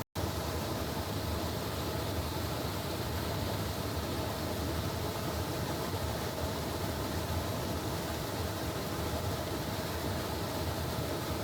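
Steady rushing noise with a low hum underneath, at an even level throughout. It cuts out for an instant right at the start.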